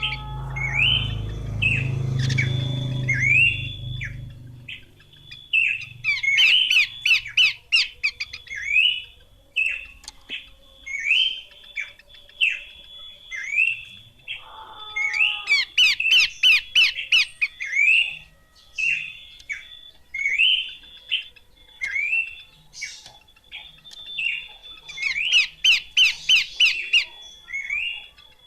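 Horsfield's babbler (pelanduk semak) calling: a steady series of short, quick down-slurred whistled notes. Bursts of rapid harsh rattling come about every ten seconds, near the start, the middle and the end. A low rumble runs under the first few seconds.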